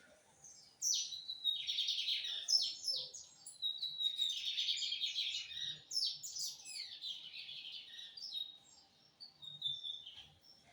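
Lined seedeater (bigodinho) singing one long, fast song phrase of rapid trills and chirps, starting about a second in and trailing off in a few softer notes near the end.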